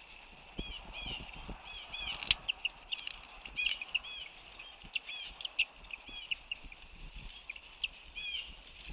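Birds calling: a steady run of short, high, chirping notes repeating and overlapping, with occasional low knocks and rumble from the outdoor microphone.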